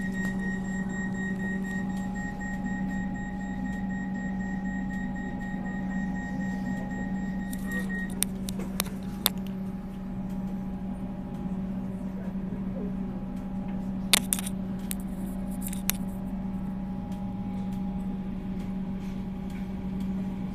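Steady electric hum inside a suburban electric train carriage, with a high whine that stops about eight seconds in. A few sharp clicks and knocks come through near the middle.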